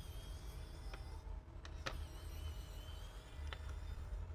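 Faint handling of a laptop's motherboard and parts: three light clicks, the middle one the loudest, over a low steady hum.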